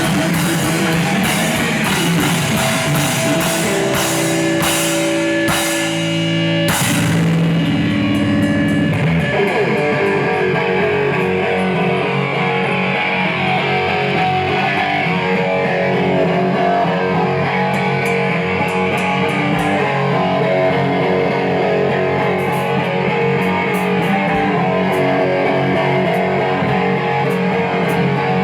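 Rock band playing loud live: distorted electric guitar, bass and drum kit, with dense cymbal crashes in the opening seconds and the arrangement changing about nine seconds in.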